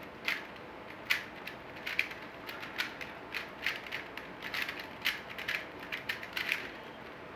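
Plastic puzzle cube being turned by hand: quick irregular clicking and clacking as the layers snap round, a few turns a second, bunched more tightly about two-thirds of the way in.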